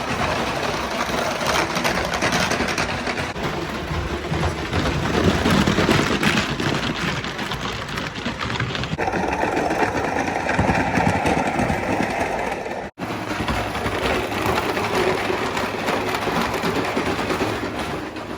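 Mamod Mk 3 live-steam locomotive running, its oscillating cylinders making a fast, busy chuffing and mechanical clatter. The sound changes character about halfway through and drops out for an instant about two-thirds of the way in.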